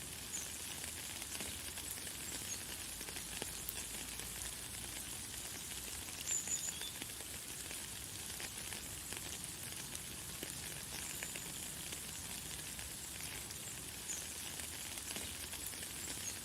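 Light, fine rain pattering steadily, with many small drop ticks. A few short, high bird chirps sound over it, the loudest about six seconds in.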